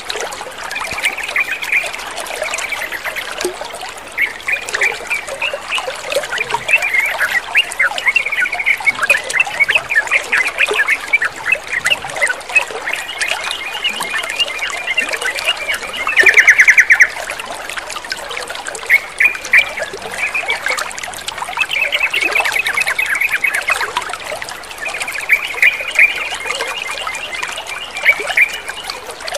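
Water trickling steadily under repeated bird song: bubbling, chattering phrases from yellow-vented bulbuls, with a louder rapid trill about halfway through and again near the end.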